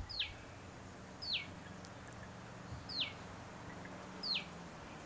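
A bird repeating a short, falling whistle four times, about once every second and a half, over a faint low hum.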